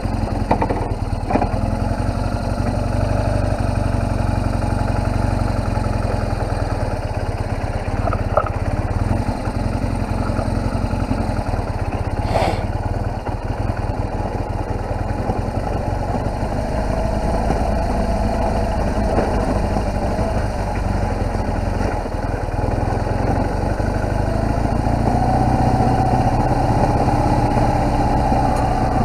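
A BMW R1200GS boxer-twin engine running steadily as the motorcycle is ridden, getting a little louder near the end. There is one short tick about twelve seconds in.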